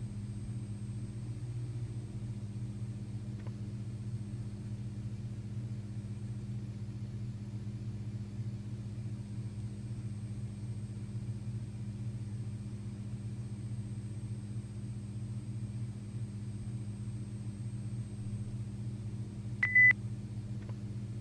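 Steady low electrical hum with a faint high whine, the background of a VHS playback with no programme on it. A short high beep sounds a second before the end.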